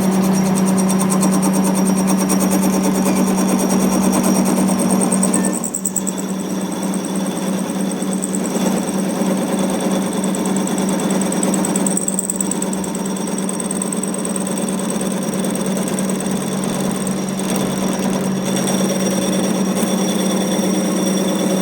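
A machine running steadily with a constant strong hum and a higher whine, dipping briefly about five and a half seconds in.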